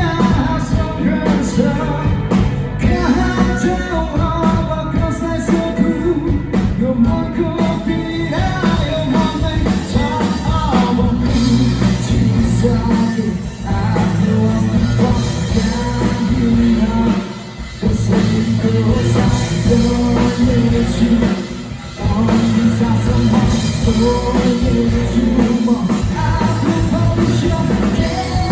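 Live rock band playing: drum kit, guitars and a lead singer, with brief drops in loudness three times.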